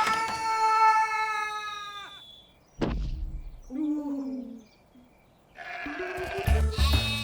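A cartoon sheep's long bleat, held on one pitch and dropping away at its end; a sharp knock about three seconds in, then a short lower call. Music comes in near the end.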